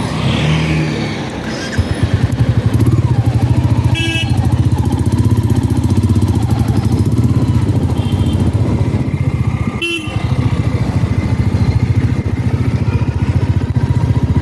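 Royal Enfield Meteor 350's single-cylinder engine running while riding, a steady rapid exhaust beat that gets louder about two seconds in. Short vehicle horn toots sound about four and ten seconds in.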